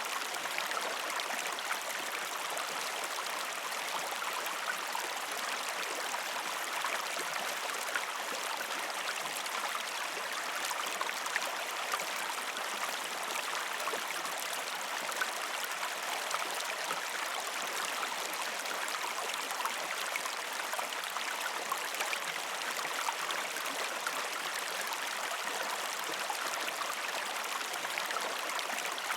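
River stream flowing over rocks: a steady rush of water with small splashes flecked through it.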